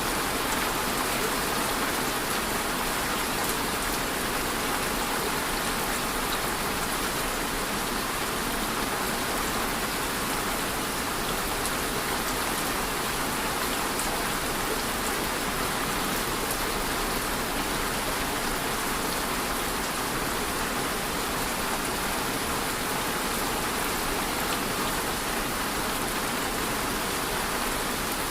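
Steady rain falling on a hard surface, an even hiss of many drops with no let-up.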